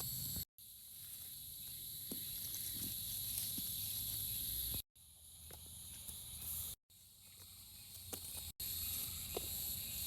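Steady background hiss with a low rumble, broken off abruptly several times by short dead-silent gaps where recording segments are spliced together, with a few faint ticks.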